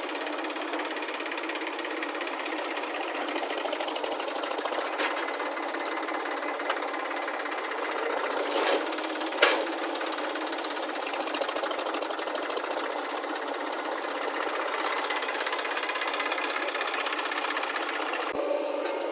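Heavy machinery diesel engine running with a steady, rapid clatter, with a few sharp knocks, the loudest about nine and a half seconds in. The sound changes abruptly near the end.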